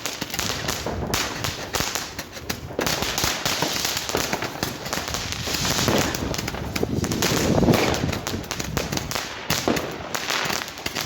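New Year's fireworks and firecrackers going off: a dense, unbroken crackle of many bangs close together, a little louder in the second half.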